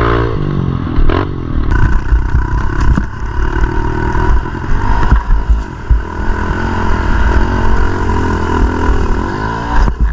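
Pit bike engine running and revving, its pitch rising and falling, over a strong low rumble.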